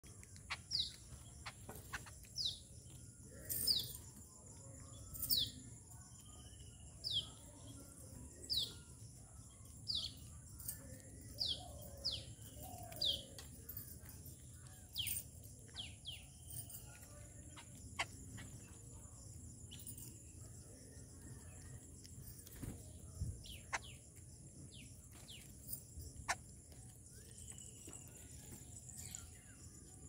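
Wild birds calling outdoors: one bird repeats a short, high, falling note about every one and a half seconds for the first half, then calls come more scattered, with sharp clicks among them. A steady high insect drone runs underneath.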